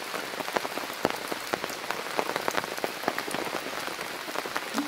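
Steady rain falling into puddles and onto wet ground, with many separate drops heard as small scattered ticks.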